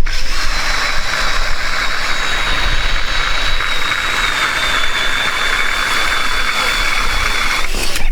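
Powered ice auger drilling a hole through the ice: a steady motor noise with a thin high whine that sags slightly under load, then stops abruptly near the end.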